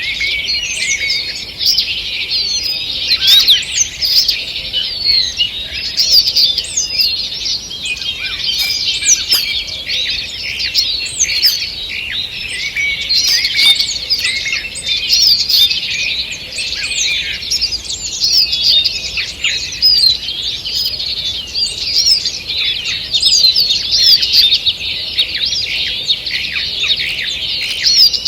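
Dawn chorus of many songbirds singing at once: a dense, continuous mix of high chirps, trills and warbles.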